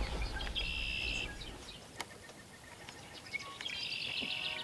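Two short buzzy wildlife calls, each under a second, about three seconds apart, over a faint outdoor background; a single sharp click about two seconds in.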